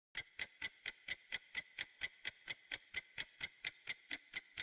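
Clock-tick countdown timer sound effect: a steady run of sharp, even ticks, about four a second, counting down the time to answer.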